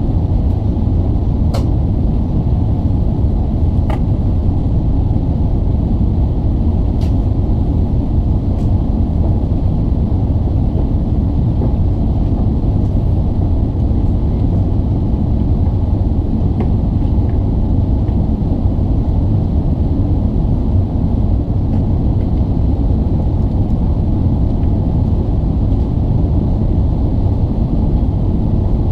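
Steady, loud cabin rumble of an Airbus A380-861 in flight, from its Engine Alliance GP7200 engines and airflow, heard from inside the cabin, with a few faint clicks early on.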